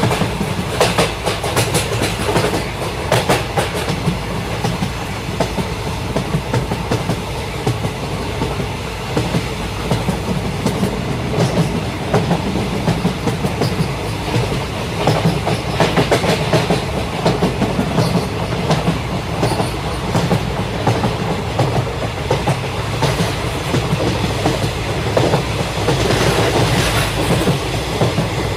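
Train running on rails: a steady low rumble with the dense clickety-clack of wheels over the track.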